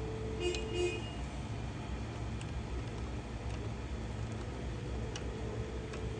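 Steady low rumble of street traffic, with a short double car-horn toot about half a second in and a few faint clicks afterwards.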